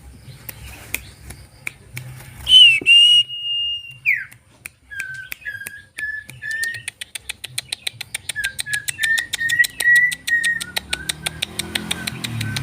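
Clear bird-like whistling: a high held note that glides sharply down, then a long run of short, even whistled notes over a rapid clicking that quickens toward the end.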